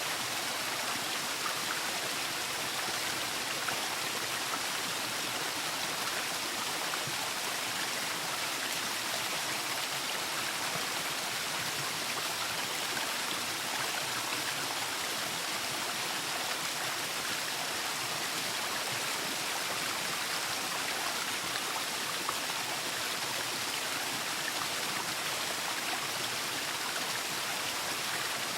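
Waterfall: water falling and splashing in a steady, unbroken rush, strongest in the high and middle range with little low rumble.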